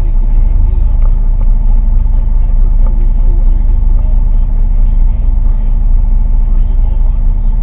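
Boat engine running steadily with a loud, even drone.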